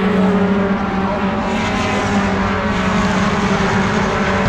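Racing pickup truck engine running hard at fairly steady high revs, one continuous engine note with only slight changes in pitch.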